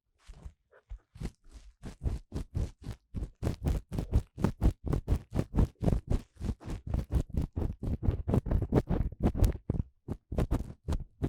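Ear-cleaning tool rubbing and scraping in the ear of a 3Dio binaural microphone, in quick scratchy strokes. The strokes are sparse at first, come about four or five a second from about two seconds in, and thin out near the end.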